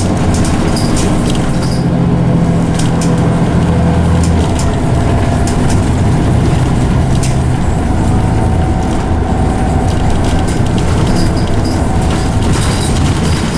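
Scania OmniCity single-decker bus heard from inside, its engine and ZF automatic gearbox running steadily with a loud drone; the ZF gearbox is loud on this bus. Low engine tones shift in pitch as it drives, with a faint gearbox whine in the middle.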